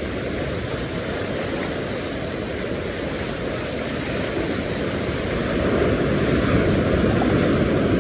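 Steady low rushing noise of wind and surf on the beach, swelling louder about five and a half seconds in.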